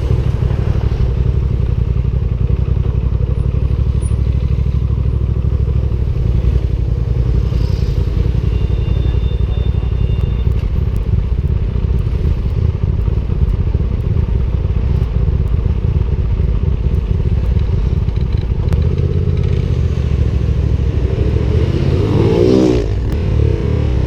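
Motorcycle engine running under way, with steady wind rush on the microphone. Near the end another fast motorcycle passes very close, its engine note sweeping up and then dropping as it goes by.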